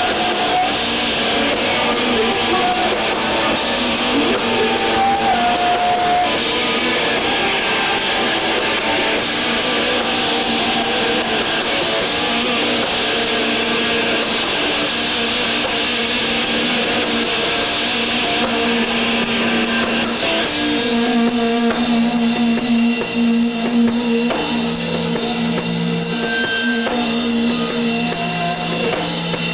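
Post-hardcore band playing live: loud electric guitars over a full drum kit with heavy cymbal wash. About 20 seconds in the drums thin out and sustained guitar notes ring on their own.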